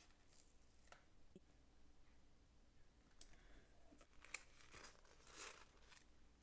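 Near silence, broken by faint paper rustles and a few light ticks from a sticker being peeled off its backing sheet and pressed onto the page.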